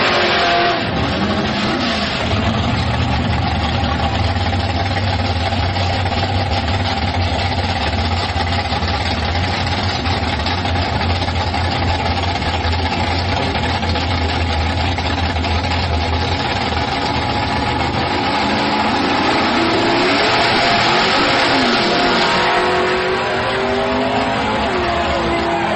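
Drag-racing cars' engines running loud at full throttle, with tyre noise. The pitch rises and falls as the engines rev, clearest just after the start, around twenty seconds in and again near the end.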